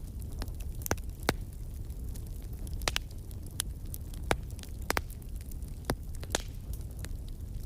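Wood fire crackling in a fireplace: about ten sharp, irregular pops and snaps over a steady low rumble of burning.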